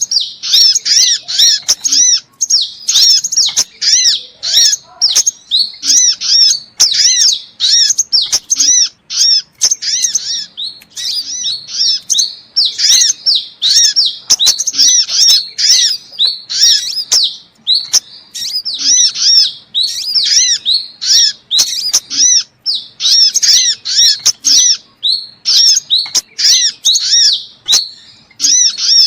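Sunbirds calling: a fast, continuous run of high, sharp chirps repeated several times a second, played as a bird-lure recording, with scattered sharp clicks.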